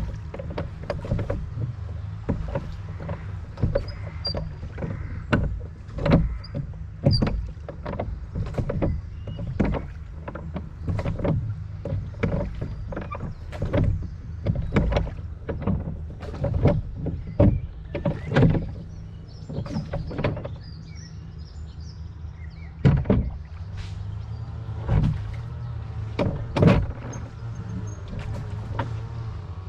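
Rowboat being rowed: irregular splashes and knocks of the oars, one or two a second, over a steady low rumble, with a short lull about two-thirds through.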